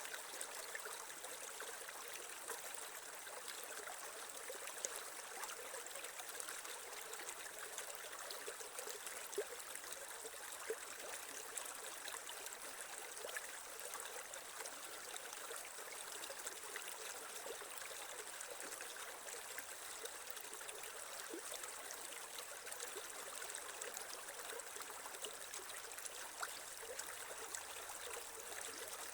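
Creek water flowing and trickling over stones in a steady rush, with small splashes now and then.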